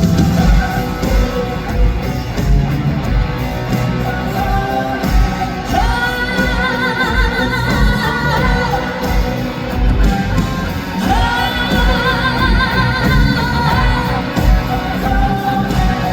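Live concert music: a high, wordless operatic-style vocalise held in long notes with vibrato, in two phrases starting about six and eleven seconds in, over a band with a steady drum beat.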